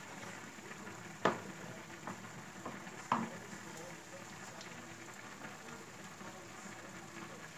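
Ground beef sizzling in a cast-iron skillet with a steady hiss, broken by two sharp knocks about a second and three seconds in, with a couple of fainter taps between them.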